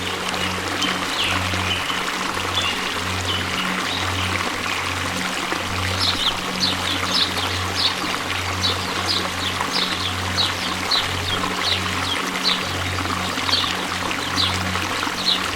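Steady rush of a waterfall, with a low hum pulsing on and off underneath. From about six seconds in, a bird chirps over it in a quick series of short high notes.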